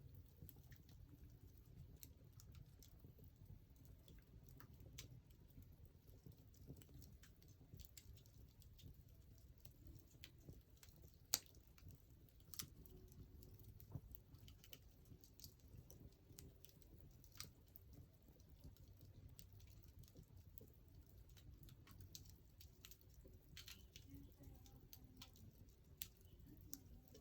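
Wood fire crackling faintly, with scattered small pops and one sharper pop about eleven seconds in.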